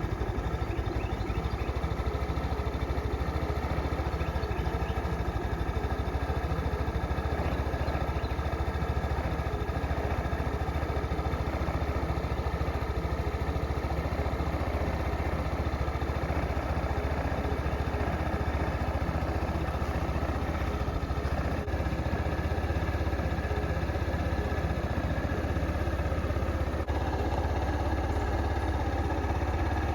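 The single-cylinder four-stroke GY6 150cc engine of an XPro Capri scooter idling steadily as it warms up after a cold start.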